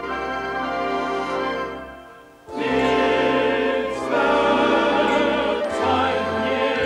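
Orchestral music that dies away about two seconds in, then comes back in at full strength with orchestra and operatic singing or choir.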